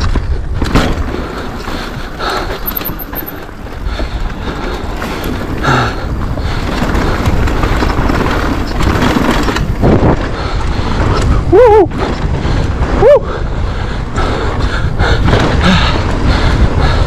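Pole Voima e-mountain bike riding down a rough downhill trail: wind buffeting the microphone, tyres rumbling over dirt and rocks and the bike rattling with frequent knocks. Two short squeals sound about two-thirds of the way in.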